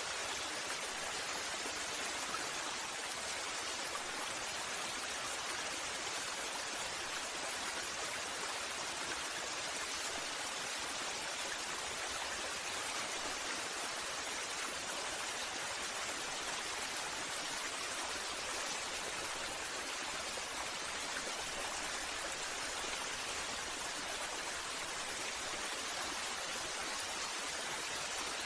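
Waterfall running steadily, an even wash of falling water with no change in level.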